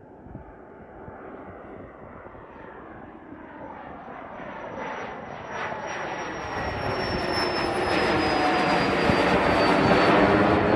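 Eclipse 500 very light jet's twin Pratt & Whitney PW610F turbofans approaching, growing steadily louder, with a high turbine whine that slowly drops in pitch as the jet draws near.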